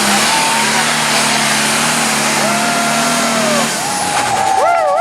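Diesel super stock pulling tractor at full throttle under load, a loud, steady engine sound that drops away about four seconds in. Voices shout over it near the end.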